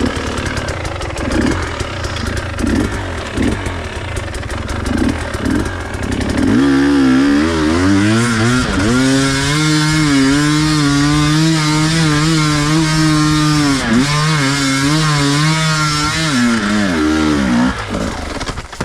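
Enduro dirt bike engine running unevenly at low revs, then from about six seconds in revving up and held at high revs for several seconds before dropping away near the end.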